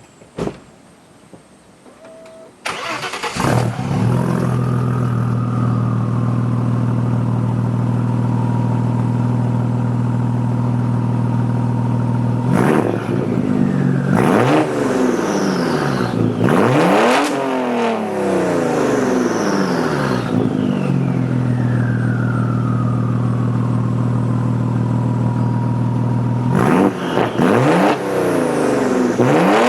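Audi S4 B5's 2.7-litre twin-turbo V6 with a turbo-back exhaust and downpipes starting up about three seconds in and settling into a loud idle with a steady whine. It is then blipped several times in two bursts, revving up and dropping back to idle, with a high whistle falling away after the revs.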